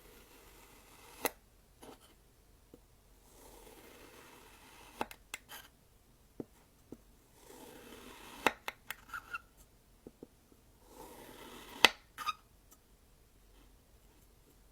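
Kinetic sand being worked with a tool: three soft stretches of crumbling, scraping noise, with sharp clicks and taps. The loudest taps come about a second in, about eight and a half seconds in, and near the end of the last scrape.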